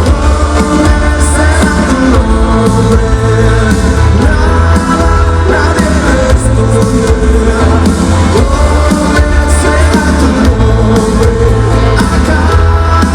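Loud rock music with a singer over guitars, bass and drums.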